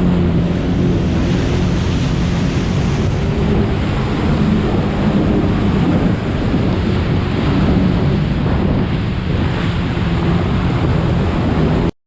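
UAZ off-road vehicle's engine running under load as it drives through water, with a continuous heavy rush of splashing water and wind buffeting the microphone. The sound drops out abruptly just before the end.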